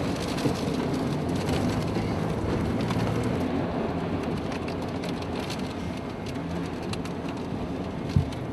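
Steady roar of tornado wind and rain, with scattered faint ticks and a single knock near the end.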